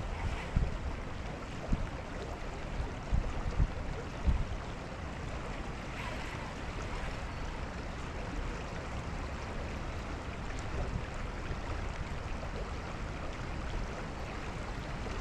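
Steady rushing wind and water noise out on the water, with a few low thumps in the first four seconds or so.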